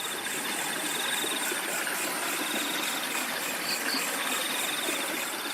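Flowing river water with crickets chirping in a high, pulsing trill that breaks off briefly a couple of times.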